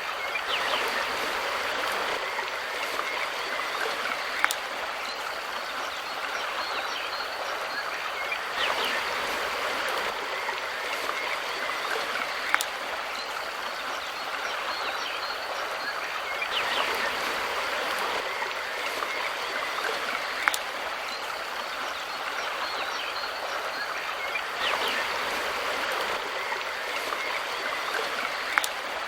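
A mountain river's water rushing and splashing, with a sharp click repeating every eight seconds.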